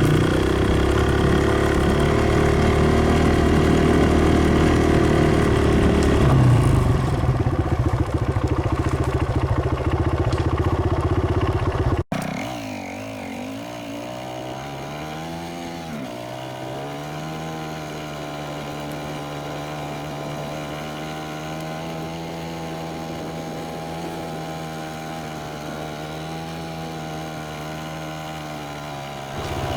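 Dirt bike engine running under way, loud and rough at first, then shifting in pitch. After an abrupt cut about twelve seconds in, it is quieter and steadier, dipping and rising once in pitch before holding an even tone.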